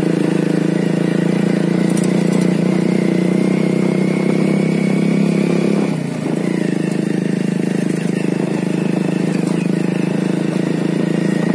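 Honda Revo motorcycle's single-cylinder four-stroke engine running steadily while riding, with a brief dip in the engine note about halfway through.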